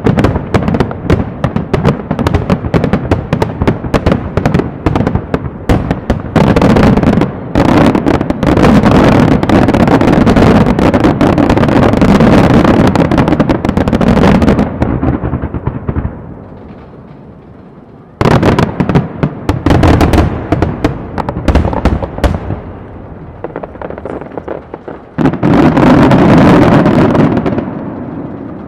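Starmine fireworks barrage: aerial shells bursting in rapid, overlapping volleys with crackling. The firing eases off for a couple of seconds past the middle, comes back, and builds to a final heavy burst near the end before dying away.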